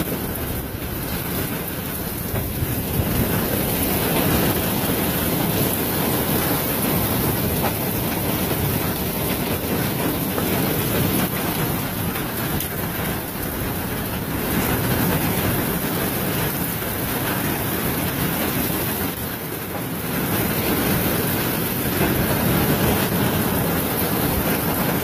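Heavy rain pouring down in a storm, a steady dense hiss and patter from the downpour hitting surfaces.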